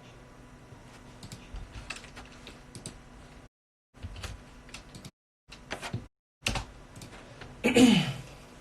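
Scattered clicks and taps, like computer keyboard and mouse clicks, broken twice by stretches of dead silence where the recording cuts out. Near the end comes a short, loud voice sound that falls in pitch.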